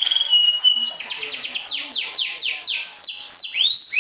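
Domestic canary singing: a couple of short held whistles in the first second, then a fast run of repeated downward-sweeping notes, about five a second, ending in a rising note near the end.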